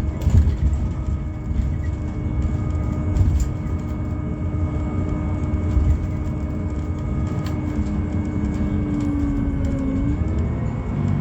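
Interior sound of a Scania Citywide LFA city bus under way: its Scania OC09 five-cylinder natural-gas engine and driveline give a deep rumble under a steady whine. The whine sags slightly and then rises near the end. A few knocks come from the bus body.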